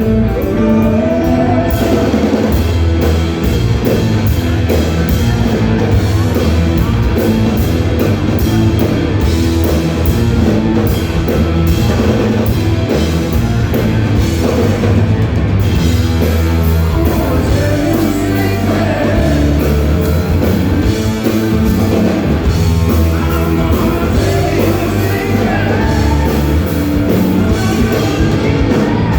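Rock band playing at full volume: a singer over drum kit and electric guitar, with no let-up.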